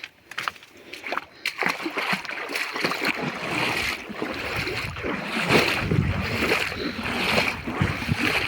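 Water splashing and sloshing, growing louder and busier after the first second or so.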